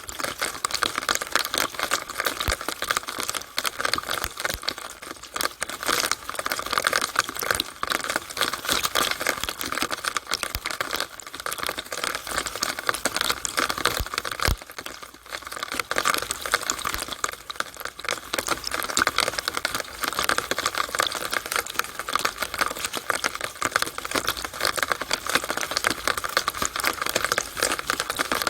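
Rainwater running and dripping inside a rain downspout, a dense, continuous crackling patter of tiny drops and splashes.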